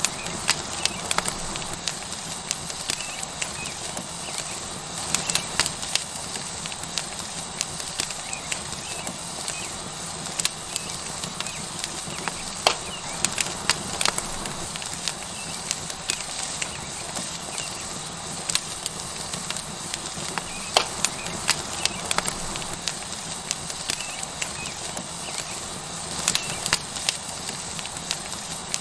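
Wood fire crackling with frequent irregular sharp pops over a steady sizzle of a tomahawk steak searing on a hot rock.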